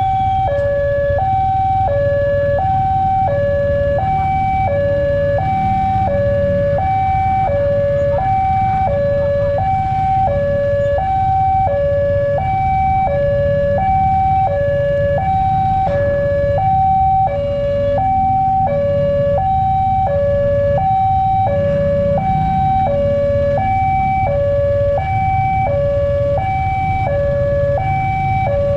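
Electronic railway level-crossing alarm sounding continuously, a two-tone warble flipping between a lower and a higher note about once a second, over a low steady rumble.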